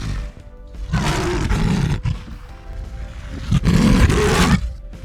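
Tiger roaring twice, each roar about a second long, over background music.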